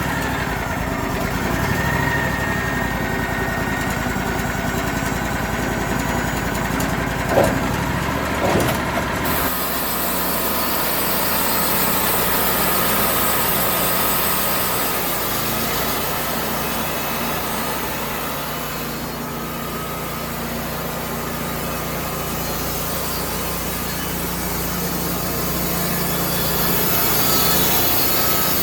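Engine-driven saw running steadily; about nine seconds in a hiss joins the engine as the saw cuts through wood, and carries on through the rest.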